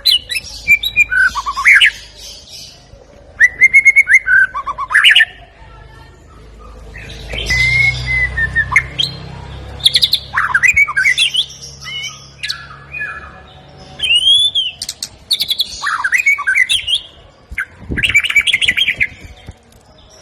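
Medan-type white-rumped shama (murai batu) singing loud, varied phrases of clear whistles, up-and-down slurred notes and fast trills, with short pauses between. The song is filled with mimicry of other birds' songs, such as ciblek, cililin, cucak jenggot and kapas tembak.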